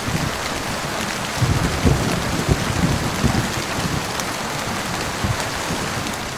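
Heavy rain falling steadily, with a low, uneven rumble of distant thunder under it, strongest about one to three seconds in.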